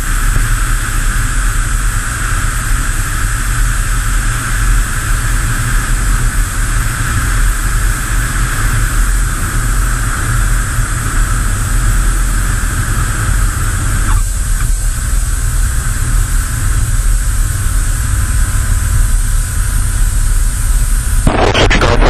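Cessna 172's four-cylinder piston engine and propeller droning steadily in flight, with a constant rush of wind noise; the tone shifts slightly about two-thirds of the way through.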